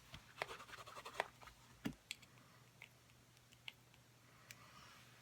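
Faint scratching of a rubber stamp on an acrylic block being rubbed clean on a Stampin' Scrub pad, with a few strokes in the first second or so. After that come scattered light clicks and ticks.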